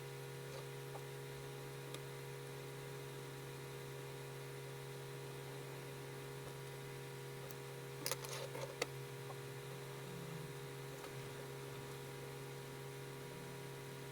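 Steady low electrical hum, with a short cluster of sharp scratchy clicks about eight seconds in.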